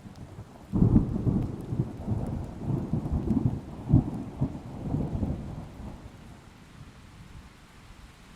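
Thunder: a sudden crack about a second in, then a crackling, rolling rumble with a second loud peak that fades out over the next few seconds, with rain hissing underneath.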